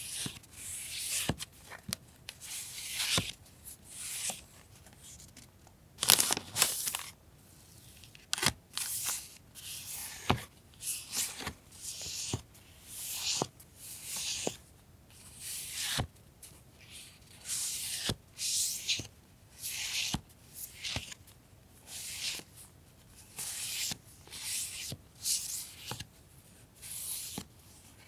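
Sheets of paper being handled: repeated rustling, swishing strokes about once a second, each with a small sharp tap.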